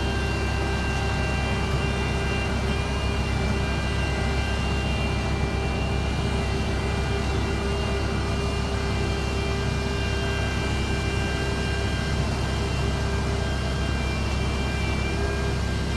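Heavy diesel road-construction machinery running steadily: a constant low engine drone with several steady whining tones above it.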